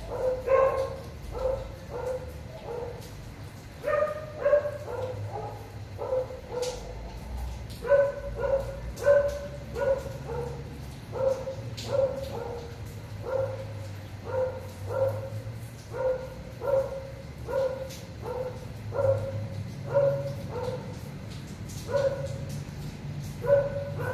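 A dog barking over and over, short barks about one to two a second.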